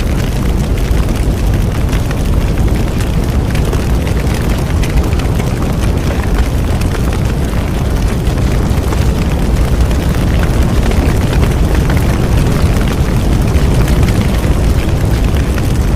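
Bonfire burning steadily: a constant deep rumble of the flames with frequent small crackles and pops throughout.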